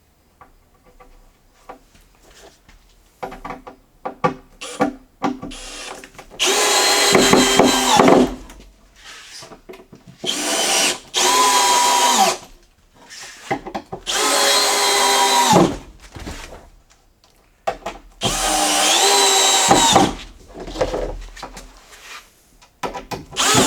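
Power drill run in several bursts of one to two seconds, pre-drilling screw holes in wood. Its motor pitch drops as each burst stops, with small knocks of handling between bursts.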